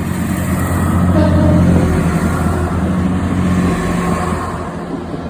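Engine of a passing vehicle, a steady low hum that grows louder to a peak about two seconds in and then fades.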